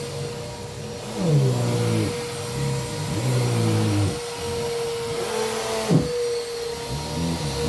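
Vacuum cleaner running on carpet: a steady motor whine, with a lower drone whose pitch slides down and back up several times as it is pushed across the floor.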